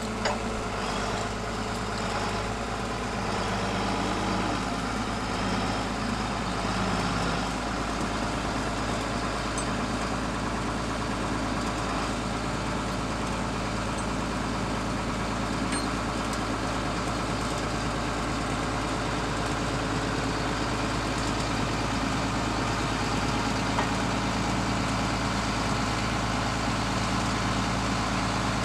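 An engine running steadily at idle, with its pitch wavering a little in the first several seconds.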